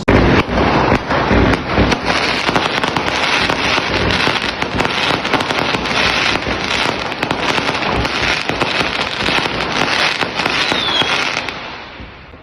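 Fireworks going off in a dense, rapid barrage of bangs and crackles, thinning out and dying away near the end. A short falling whistle sounds just before it fades.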